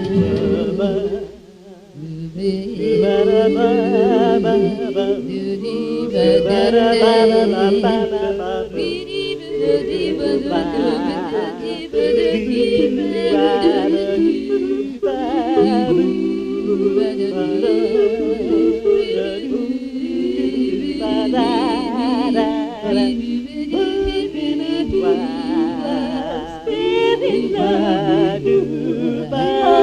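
Singing with wavering vibrato and little instrumental backing, on a home four-track recording. There is a brief break about a second and a half in.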